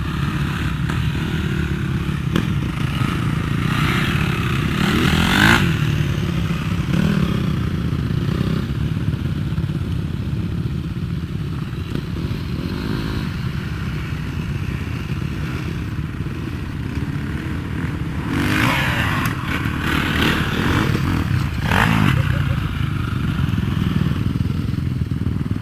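Motocross dirt bikes running, engines revving up and down as they pass. The loudest passes come about five seconds in and again around eighteen to twenty-two seconds in.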